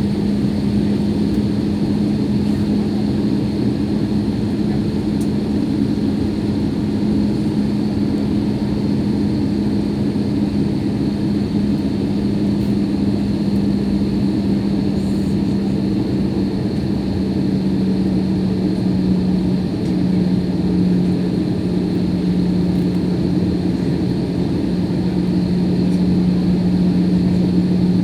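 Jet airliner's engines and airflow heard from inside the passenger cabin during the landing approach: a loud, steady drone with a constant low hum whose pitch shifts slightly about two-thirds of the way through.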